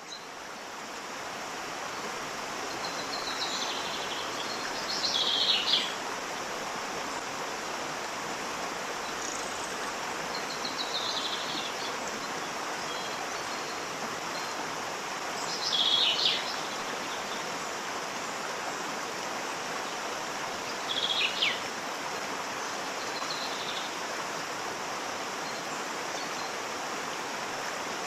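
Waterfall: a steady rush of falling water that fades in at the start. Short bird calls break through it four times, about five seconds in, near eleven seconds, at sixteen and at twenty-one.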